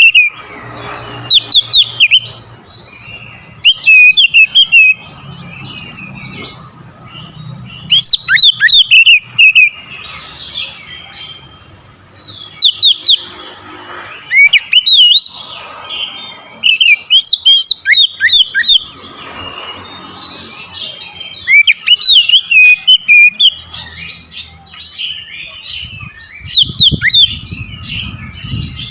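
Oriental magpie-robin (kacer) singing a loud, varied song: repeated bursts of sharp whistles and fast chattering phrases, a second or so each, with short pauses between.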